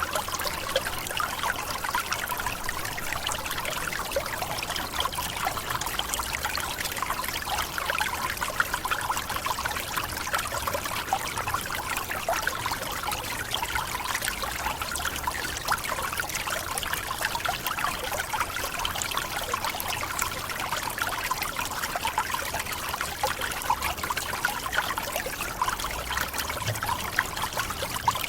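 Tropical forest waterfall: water falling and splashing steadily, with a trickling, spattering sound.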